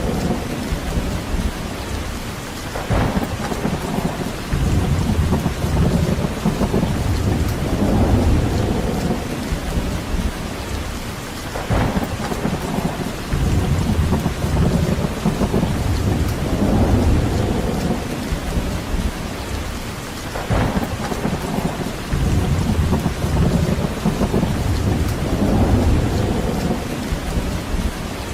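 Steady heavy rain, with low rumbling swells rising and falling every few seconds and a brief higher streak about every nine seconds.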